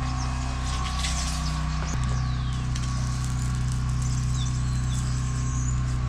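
Birds chirping with short, high, falling whistles, repeated several times over a steady low drone that shifts pitch about two seconds in.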